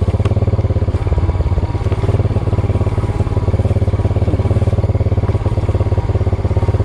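Motorbike engine running steadily at low speed with a rapid, even putter, with a few light clicks and rattles over the rough track.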